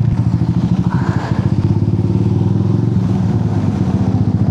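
Motorcycle engine running steadily, its exhaust giving a fast, even pulsing.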